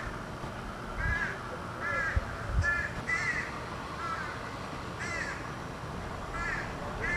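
Crows cawing: a series of short, harsh caws, about one a second with uneven gaps.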